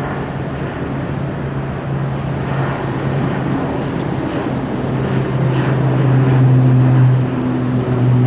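Silver Airways ATR turboprop taking off, its propellers giving a steady low drone that grows louder as it climbs out.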